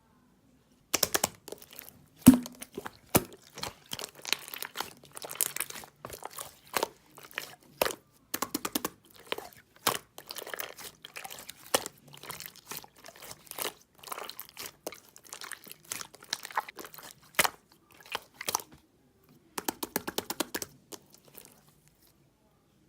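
Clear slime being played with, giving a dense, irregular run of sharp clicks and crackling pops that starts about a second in and stops near the end.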